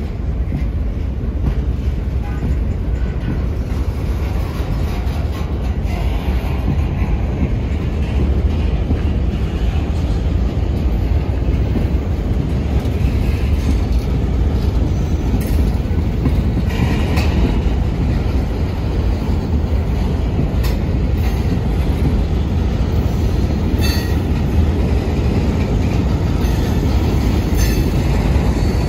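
Loaded coal hopper cars being shoved back through a grade crossing, their wheels rumbling steadily over the rails, with a few sharp clanks and faint wheel squeal along the way.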